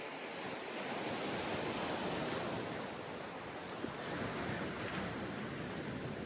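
Sea waves breaking and washing up on a sandy beach, with two swells of surf noise, about a second in and again near four seconds in.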